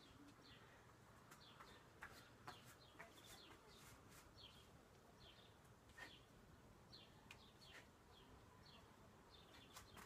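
Near silence, with a small bird chirping faintly over and over: short, high, falling chirps about once or twice a second. A few soft clicks stand out briefly.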